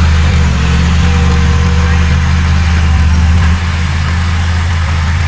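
Heavy diesel engine of earthmoving machinery running with a steady deep drone, easing slightly in level about three and a half seconds in.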